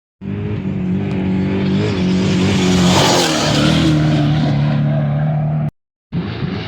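An off-road race vehicle's engine running hard as it passes by at speed, loudest about three seconds in, with the pitch dropping slightly as it goes past. Near the end the sound cuts out for a moment and another engine comes in.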